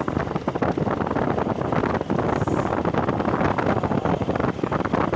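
Heavy wind buffeting on a phone microphone while riding a Honda Shine 125 motorcycle, with the bike's single-cylinder engine and road noise underneath. The flutter is rapid and uneven throughout.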